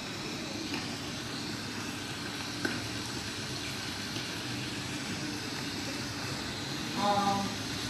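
Steady background hiss of a room, with a single faint click about two and a half seconds in and a short pitched sound, the loudest moment, near the end.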